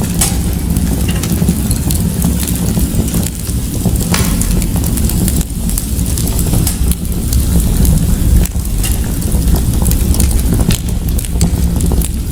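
Fireplace fire crackling, with scattered sharp pops over a steady low rumble of the flames.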